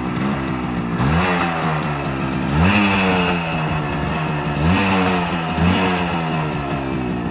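Small two-stroke moped engine, just started, idling and revved four times, each swell rising and dropping back to idle, the second the loudest.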